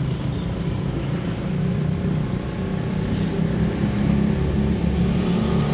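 A motor vehicle engine running steadily with a continuous low rumble.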